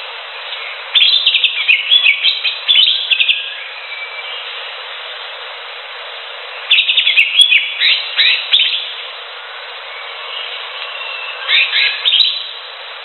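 Green leafbird (cucak hijau) singing: three bursts of rapid, varied chirping phrases a few seconds apart, over a steady background hiss.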